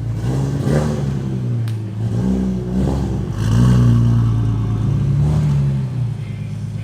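Car engine revved repeatedly, its pitch rising and falling several times over a steady idle.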